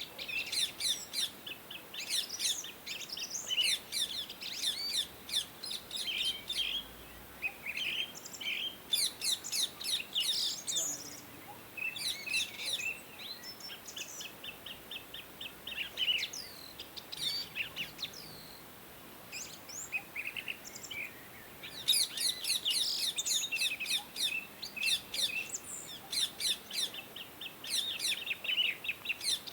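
Indian ringneck parakeets chirping in quick runs of short, high calls, with brief lulls in the middle and a busier stretch near the end.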